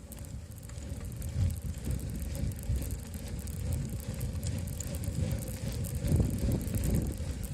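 Bicycle being ridden, heard from a handlebar-mounted camera: tyre rumble and rattling bumps from the bike, with wind on the microphone, getting louder as the ride picks up.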